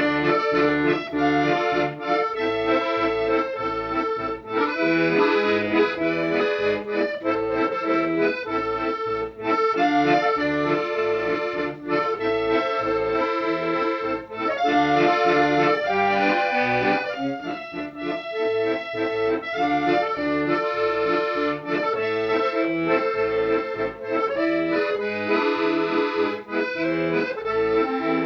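Instrumental accordion music: a sustained melody in chords over a steady, pulsing bass accompaniment.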